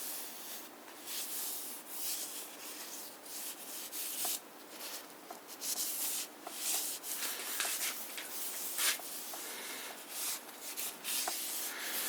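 Soft cloth wiping lightly over the oiled metal body of an antique sewing machine head: uneven swishing strokes with a few faint ticks.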